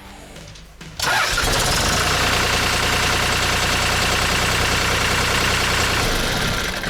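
Diesel engine of a New Holland L180 skid-steer loader starting up suddenly about a second in and running steadily. This is a test start after a burnt wiring fault was found and repaired.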